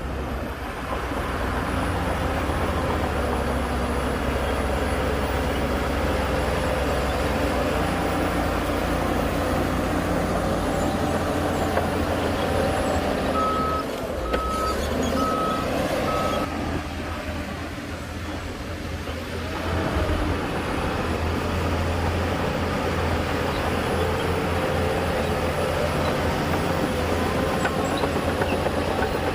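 Heavy diesel earthmoving machinery, a bulldozer and dump trucks, running steadily. About halfway through comes a short run of backup-alarm beeps from a machine reversing.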